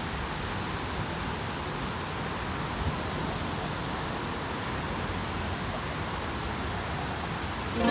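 Leaves rustling steadily in the wind, an even hiss with no breaks.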